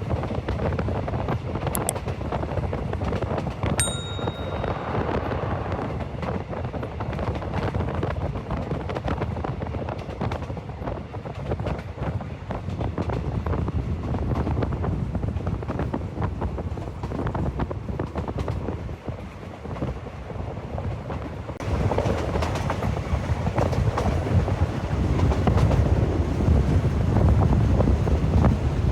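Train running along the track: a steady rumble with many small clicks, and a brief high tone about four seconds in. It gets louder about 22 seconds in.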